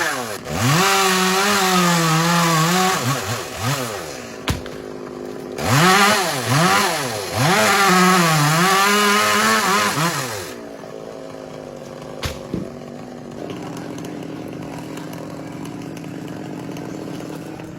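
Two-stroke chainsaw revved up and down over and over in two spells, its pitch rising and falling with the throttle, then dropping to a steady idle about ten seconds in.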